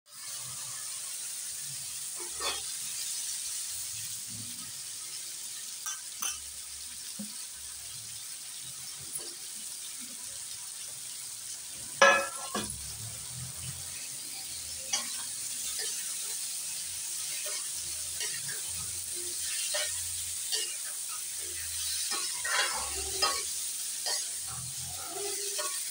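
Masala frying in hot oil in a steel kadhai, a steady sizzle with the steel spatula scraping and clinking against the pan. About halfway through, diced vegetable pieces drop into the oil with a loud burst of sizzling, and the stirring then carries on.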